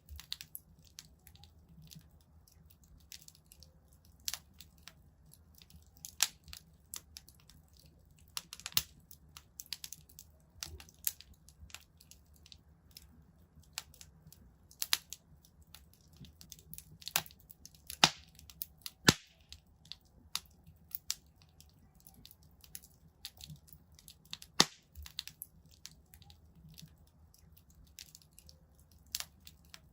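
Wood fire crackling in a fireplace: irregular sharp pops and snaps, some loud and most small, over a faint low rumble.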